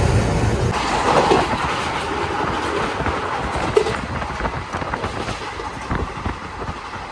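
Passenger train running on the track, its wheels clicking irregularly over the rail joints over a steady rumble.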